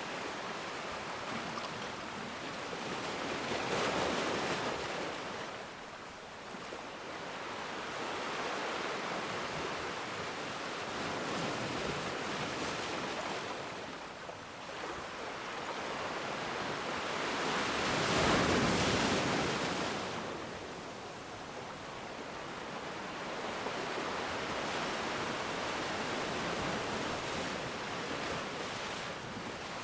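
Ocean waves washing on the shore in a continuous rush, swelling and falling back as each wave breaks; the biggest swell comes a little past halfway.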